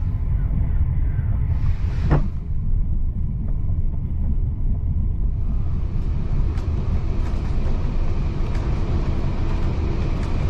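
Heritage railway carriage running along the track, heard from inside: a steady low running noise, with one sharp knock about two seconds in and a few faint clicks later.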